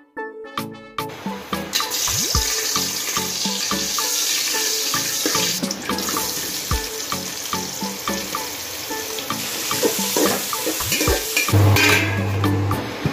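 Sliced onions sizzling steadily as they fry in hot oil in an aluminium pot, with background music playing over it.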